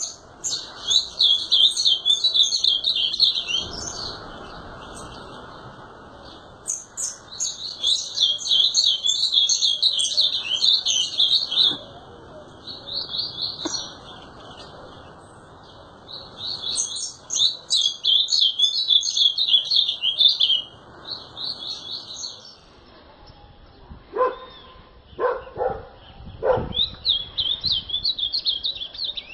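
Ultramarine grosbeak (azulão) singing: repeated phrases of rapid high warbled notes, each a few seconds long, with short pauses between. Near the end come three short, lower-pitched sounds before the song resumes.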